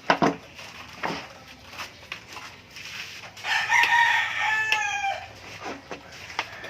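A rooster crowing once, about halfway through: one long call that holds its pitch and then falls away at the end. Before it there are a couple of sharp knocks, one right at the start and one about a second in.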